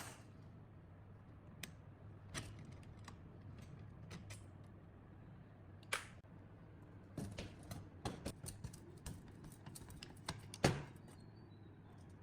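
Irregular sharp clicks and light knocks of small metal parts being handled, with a quick run of clicks a little past the middle and the loudest knock near the end, over a faint steady low hum.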